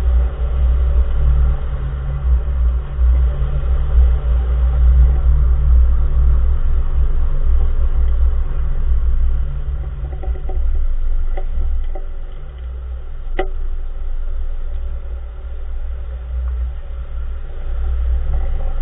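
2014 Nissan March driving with a steady low road rumble, and about ten seconds in a few short clunks over some three seconds, the last the sharpest: the unexplained knock from the front wheel area.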